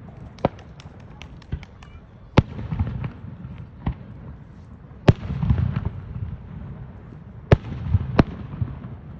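Fireworks bursting: about six sharp bangs a second or two apart, with a quick run of small crackling pops in the first two seconds. A low, rolling boom follows several of the bigger bangs.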